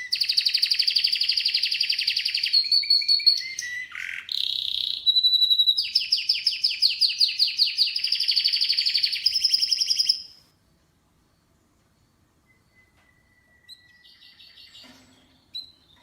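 Canary singing a loud song of rapid trills and rolls, fast-repeated high notes, that stops abruptly about ten seconds in; only a few faint chirps follow.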